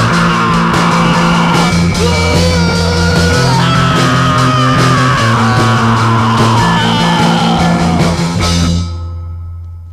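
Loud rock music with gliding melody lines over a steady low part. It breaks off near the end, leaving one low note fading out.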